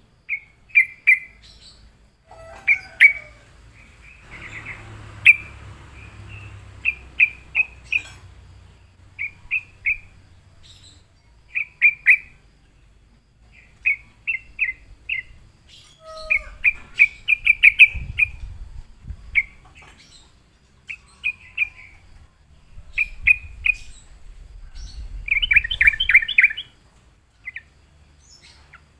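Yellow-vented bulbul singing: short chirping phrases of a few quick notes each, coming in bursts every second or two. A low rumble runs underneath at times.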